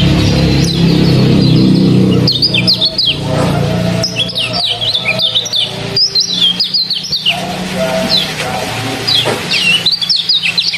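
A kecial bird chirping in quick bursts of short, high, falling notes, several clusters across the stretch. Under it runs a low droning tone, strongest in the first couple of seconds.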